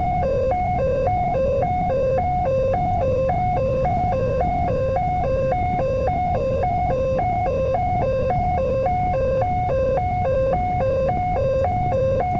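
Railway level-crossing warning bell sounding a steady alternating two-tone alarm, switching between a low and a high tone about twice a second, over a steady low rumble.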